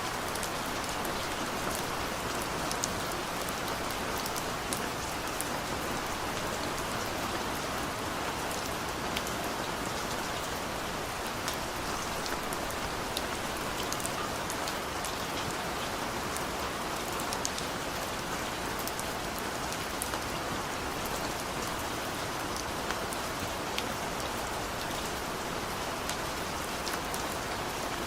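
Steady rain falling, an even hiss with many separate drops ticking sharply on a surface close by.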